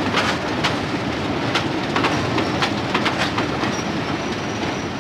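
British Rail diesel-hauled passenger train running along the platform, its wheels clicking over the rail joints in an uneven stream over a steady rumble. A thin high squeal comes in near the end.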